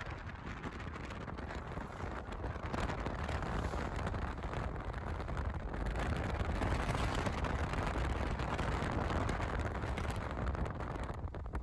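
Wind buffeting the microphone: a steady, unbroken rumbling rush.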